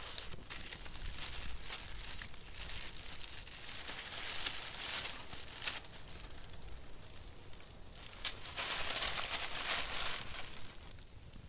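Rustling and crinkling of dry material being handled, in irregular stretches, loudest about four to five seconds in and again from about eight and a half to ten and a half seconds.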